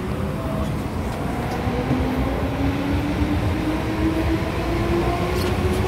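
MTR M-Train metro train running, heard on board: a steady rumble of wheels on rail under a motor whine whose pitch rises slowly as the train gathers speed.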